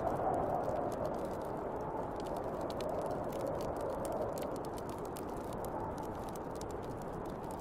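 Snowstorm wind blowing steadily, swelling and easing, over the many small sharp crackles of a wood fire.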